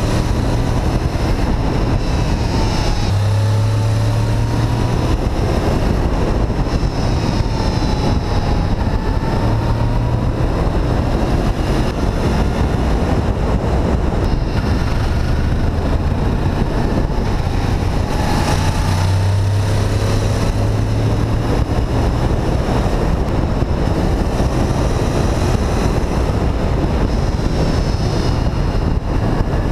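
Honda VFR800 VTEC's V4 engine running under way, its pitch rising and falling several times as the revs change, over heavy wind rush on the microphone.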